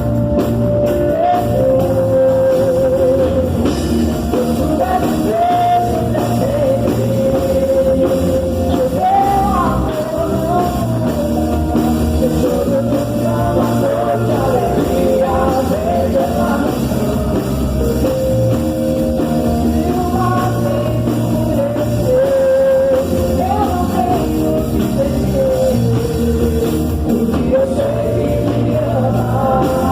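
Live worship band playing a praise song, a wavering sung melody over sustained low bass notes and band accompaniment.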